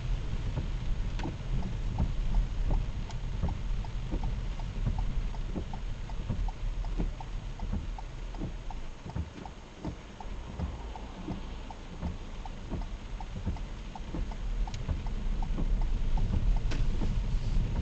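A vehicle driving in heavy rain: a steady low road and engine rumble under many irregular ticks of raindrops hitting the bodywork and glass, with a rain hiss.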